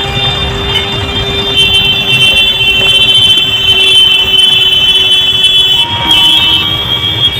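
Highway traffic rumbling past, with several steady high-pitched tones running over it that grow louder about a second and a half in.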